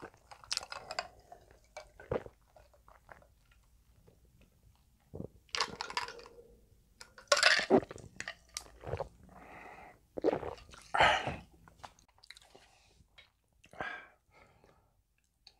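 Close-miked mouth sounds of a person eating: chewing with small wet clicks. Several louder gulping or sipping sounds come in the middle, with a glass of water to hand.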